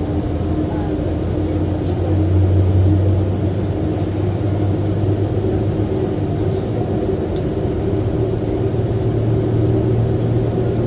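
Steady cabin drone of a Boeing 737-300 airliner, its CFM56 jet engines and airframe heard from inside the passenger cabin as a constant low hum with a few steady tones above it.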